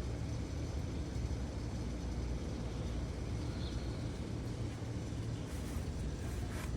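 Steady low outdoor rumble with a faint hiss, with a few brief faint rustles near the end.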